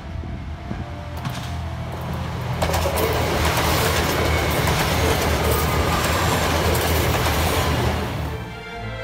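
Kyoto Tango Railway KTR8000 'Tango no Umi' diesel railcar train passing close by, its diesel engines running under the rumble of wheels on the rails. It grows loud about three seconds in and fades near the end.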